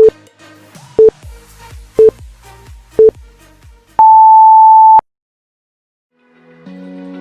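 Workout interval timer counting down: short beeps once a second, then one long, higher beep marking the end of the interval, over faint background music. After a second of silence, a new music track fades in near the end.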